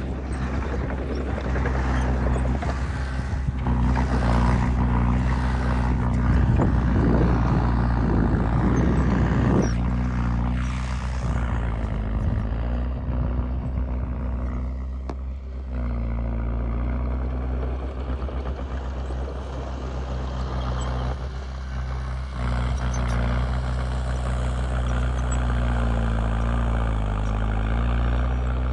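Small Komatsu D20P crawler bulldozer's diesel engine running steadily under load, with grinding, clattering noise from the tracks and pushed soil for about the first ten seconds, then easing off while the engine keeps running with small shifts in pitch.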